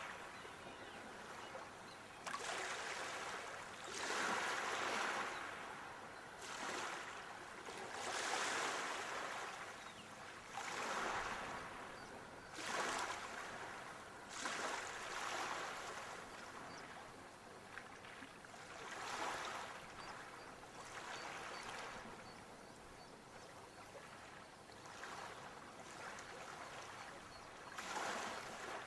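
Sea waves washing onto a shore, swelling and falling every two to four seconds.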